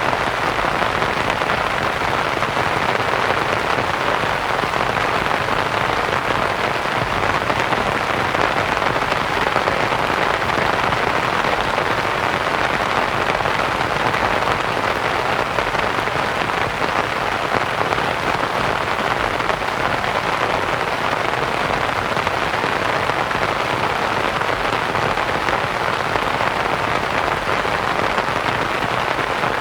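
Steady rain pattering on a canvas tent, blended with soft white noise, even throughout.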